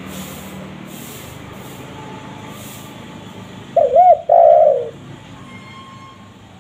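Spotted dove (tekukur) giving one coo call about four seconds in: a short looping note followed by a longer rolling note, over a steady background hiss.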